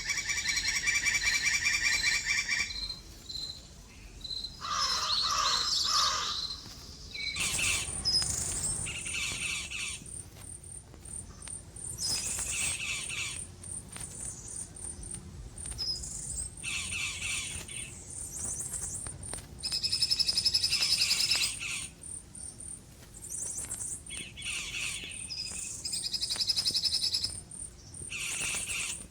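Birds chirping and calling in a run of high trilled phrases, over a high chirp that repeats at an even pace through most of it; a recorded bird sound effect.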